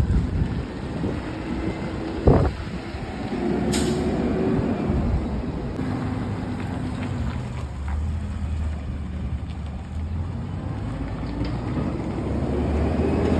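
Front-load garbage truck's engine running, its pitch rising and falling twice, with one loud bang about two seconds in and a short, high hiss a moment later.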